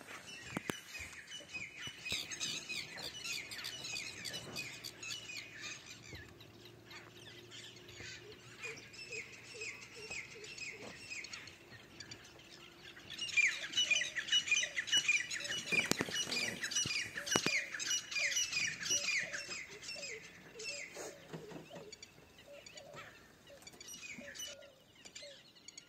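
Birds calling: quick runs of short, falling chirps in bouts, loudest from about halfway through.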